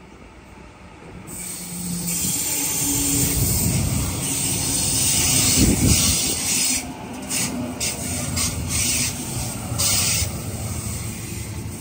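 Sydney Trains double-deck electric train running into the platform and passing close by, its wheels rumbling on the rails with a steady hiss. It grows louder over the first few seconds and is loudest about six seconds in.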